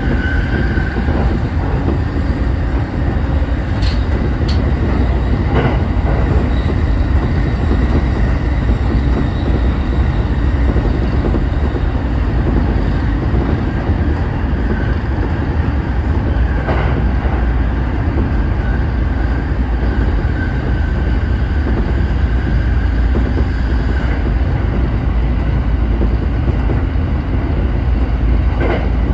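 Tokyo Waterfront Area Rapid Transit 70-000 series electric train running along the line, heard from inside the driver's cab: a steady rumble of wheels on rail with a faint whine, and an occasional sharp click.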